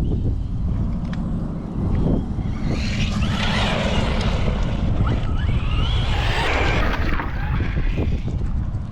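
Arrma Vorteks 223 RC stadium truck's Hobbywing MAX10 G2 brushless system with its 2400kV motor, whining as it drives, with the pitch rising and falling as it speeds up and slows down through the middle of the stretch, over a steady low rumble.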